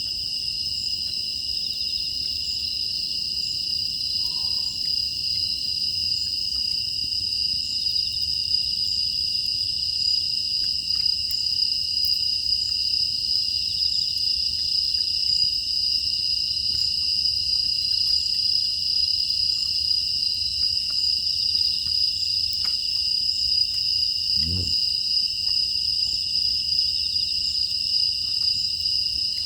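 Chorus of crickets and other grass insects, a steady high-pitched shrill trilling, with faint scattered crackles from a wood fire and one brief low thump near the end.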